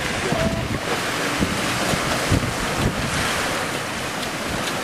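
Strong wind buffeting the microphone over the steady rush of choppy waves.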